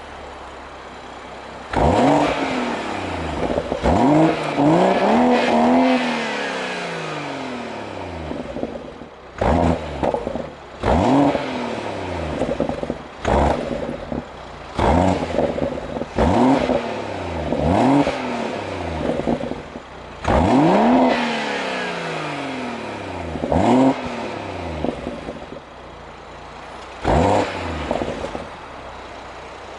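BMW M140i's B58 turbocharged inline-six free-revving through its exhaust: it idles, then is blipped about a dozen times. The pitch shoots up sharply with each blip and glides back down to idle, with a few pops and crackles as the revs fall.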